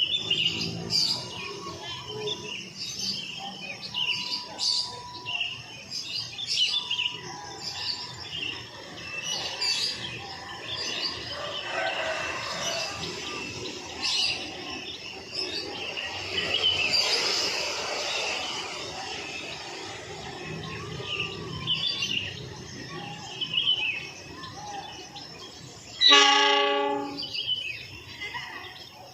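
Birds chirping, with a broad rushing noise that swells and fades midway, then one short, loud blast of a diesel locomotive's horn near the end.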